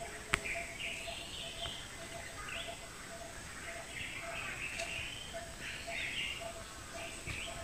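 Birds chirping in short scattered calls, over a steady run of short repeated lower notes. A single sharp click comes about a third of a second in.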